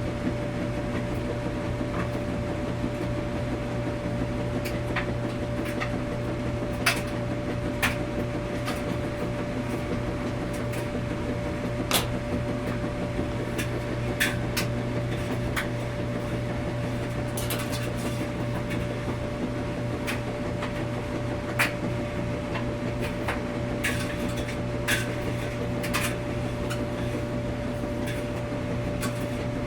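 Washing machine running with a steady hum and a constant mid-pitched tone, with light clicks and clinks scattered irregularly through it, about every second or two.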